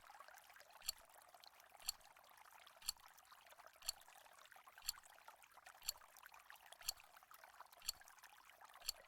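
Countdown timer ticking once a second, nine sharp even ticks, over a faint steady hiss.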